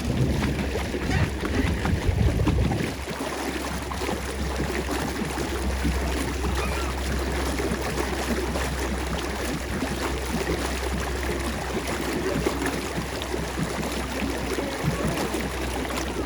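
Water churning and splashing steadily from a pedal boat's paddle wheel, a little louder in the first few seconds.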